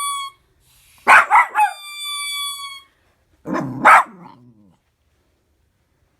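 Cavapoo puppy barking, a quick cluster of barks about a second in and another pair around three and a half seconds, the second ending in a short falling whine. Between them a squeaky dog toy gives one long, steady squeak.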